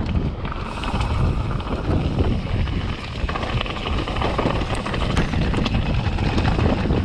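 Mountain bike riding a dirt trail: steady wind noise on the microphone over the rumble of tyres on the ground and the bike's rattle.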